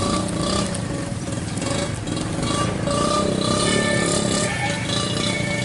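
Heavy trucks' diesel engines running under load on a climb, with a wavering whine that comes and goes over the rumble.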